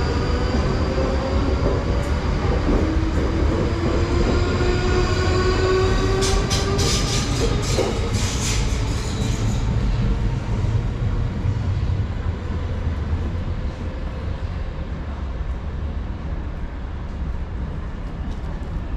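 London Underground train running, heard from on board: a steady rumble with the traction motors' whine rising in pitch at first. Sharp wheel squeals come from about six to ten seconds in, and the rumble then settles lower and quieter.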